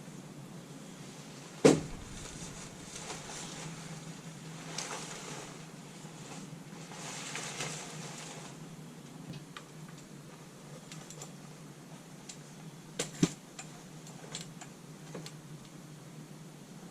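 Handling noises: a sharp knock, rustling, then a quick double knock about thirteen seconds in, with small clicks in between.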